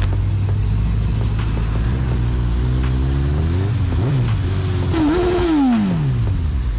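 A motor vehicle engine running with a steady low note, then revving: its pitch climbs between about two and three and a half seconds in, jumps and drops around four seconds, and falls away steadily over the last second and a half.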